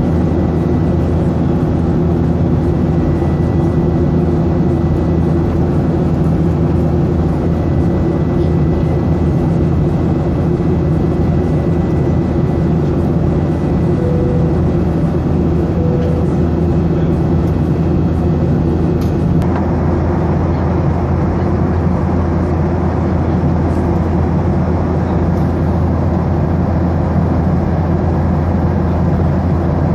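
Cabin noise of a Boeing 737-800 in flight: the steady drone of its CFM56-7B turbofan engines under the rush of airflow. About two-thirds of the way through, the rushing becomes fuller and brighter and stays that way.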